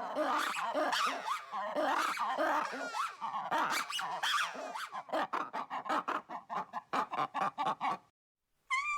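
Lemurs calling: a dense run of chattering, squealing calls that slide up and down in pitch, then quick clicking grunts at about four or five a second for some three seconds. The calls cut off about eight seconds in, and a short steady-pitched call begins near the end.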